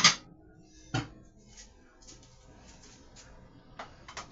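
Kitchen handling noises: a sharp knock at the start and another about a second in, then a scatter of faint light clicks and taps.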